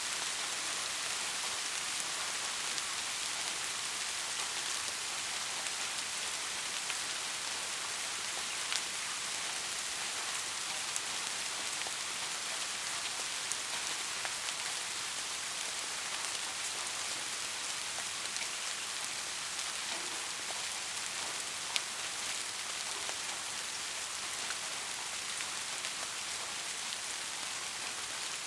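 Steady heavy rain falling on a roof, an even hiss with a few louder single drop ticks scattered through it; no thunder.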